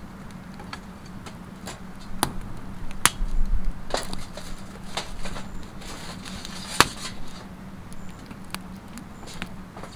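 Wood campfire crackling, with sharp irregular pops and snaps, over a faint steady hum.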